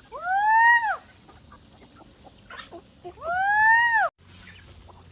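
Chicken giving two drawn-out squawks about three seconds apart, each rising and then falling in pitch, with fainter short clucks between them.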